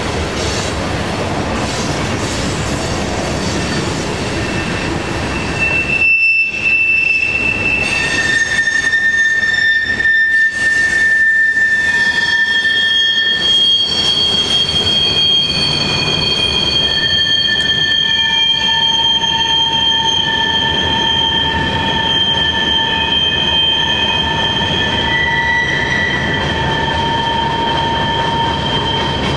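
Freight train cars rolling past with a steady rumble of steel wheels on rail. From about six seconds in, the wheels squeal against the rails with several steady, high-pitched tones that overlap and change pitch now and then, lasting to the end.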